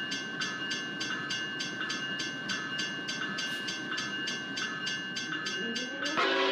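Railroad crossing bell ringing about three times a second over the rumble of a train. Near the end, the locomotive's air horn cuts in with a chord of several tones.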